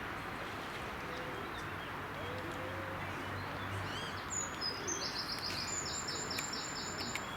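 A small songbird singing a fast series of repeated high notes, about four a second, starting a little over halfway through, with a few faint chirps before it. Steady background noise runs underneath.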